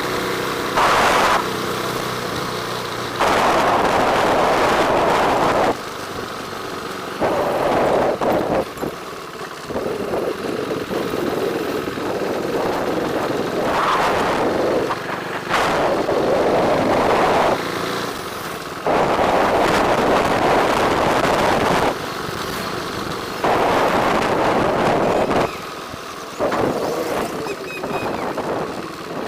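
Wind rushing over the microphone of a moving motorbike, with engine and road noise underneath; the loudness jumps up and down abruptly every few seconds.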